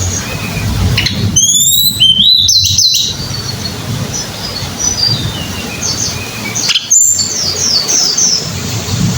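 Sunda robin (tledekan gunung) singing: thin, high whistled notes and short descending phrases, with a louder run of rising and falling notes about a second and a half in. A sharp click comes near the end, over a low steady hum.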